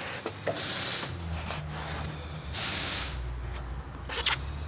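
Two soft rubbing swishes about a second long, a few light clicks, and a steady low hum underneath.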